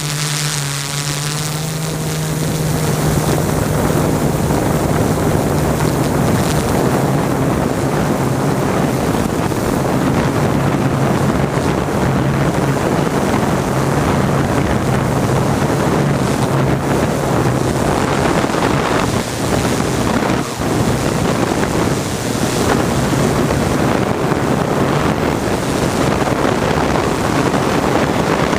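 Drone in flight: a steady low propeller hum under heavy wind rush on the microphone, the rush growing louder about two seconds in.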